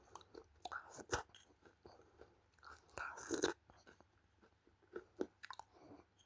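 Close-up biting and chewing of dry red clay: irregular sharp crunches and cracks, with a sharp crack about a second in and the loudest crunch a little past the middle.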